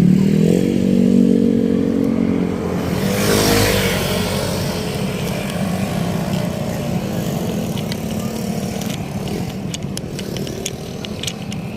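Road traffic: a vehicle engine running with a steady hum, then a vehicle rushing past about three seconds in, followed by steady road noise with a few small clicks near the end.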